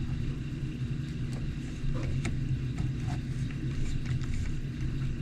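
Small scattered clicks and taps of a screwdriver starting the motor-mount screws on an RC truck, over a steady low hum.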